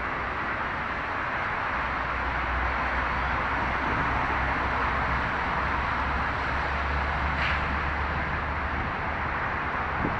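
Steady hiss of rain, with a low rumble under it for several seconds in the middle.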